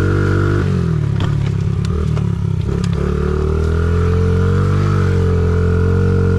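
Honda CRF50's small single-cylinder four-stroke engine under way. About half a second in, the note drops and turns rough with a few clattering knocks for about two seconds. It then comes back up and holds steady at high revs.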